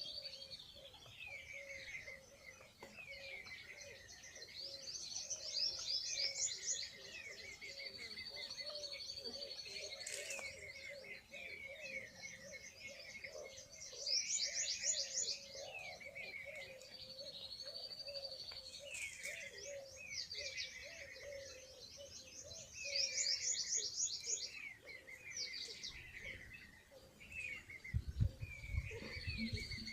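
Small birds singing and chirping together, with a fast trilled phrase coming back about every eight to nine seconds. A few low thumps near the end.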